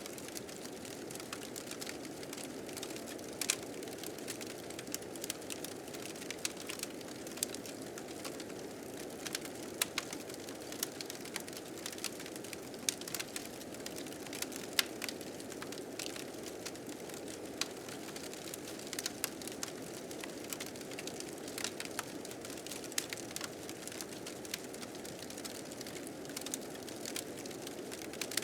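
Wood fire crackling, with many sharp, irregular pops and snaps, over the steady rushing of blizzard wind.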